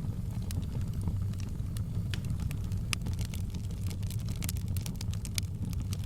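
Wood fire crackling in a fireplace: a steady low rumble of the flames with scattered sharp pops and snaps, coming more often in the second half.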